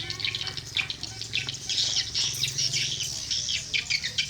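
Swiftlets twittering: rapid, overlapping high chirps and clicks, with a steady low hum underneath.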